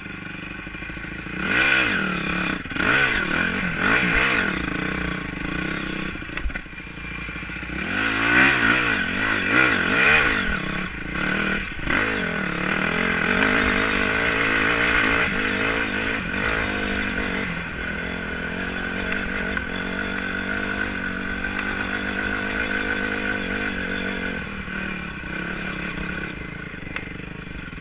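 Enduro dirt bike engine revving up and down repeatedly as the throttle is worked, settling into a steadier run at a more constant pitch about halfway through.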